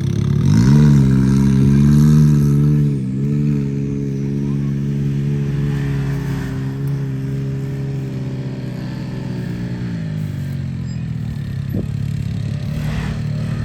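Off-road vehicle engine revving up sharply about half a second in and holding high revs for a couple of seconds. It eases briefly, pulls steadily again, and drops off around ten seconds in.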